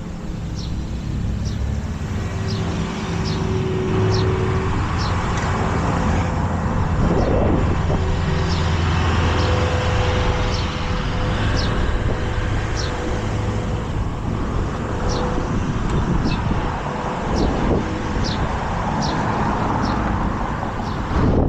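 Wind rushing over the microphone on a moving bicycle, with road traffic and a steady low hum beneath it. A light, sharp tick repeats roughly once a second.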